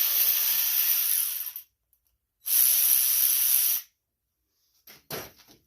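Two long bursts of pressurized spray hissing, the first about two and a half seconds and the second about a second and a half, followed by a few light clicks near the end.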